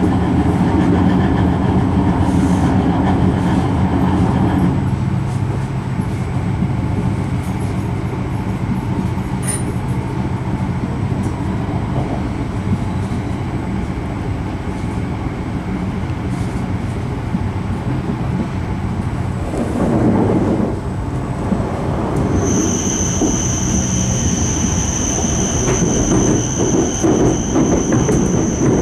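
E5 series Shinkansen heard from inside the passenger car: steady running rumble with a low hum. About three-quarters of the way in, a steady high-pitched whine comes in and holds. Near the end, a rapid clatter as the wheels cross points onto additional station tracks.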